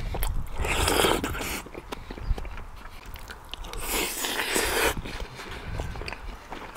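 Close-miked eating sounds: a person chewing and crunching kkakdugi, cubed radish kimchi, with many small crisp clicks and two noisier crunches of about a second each.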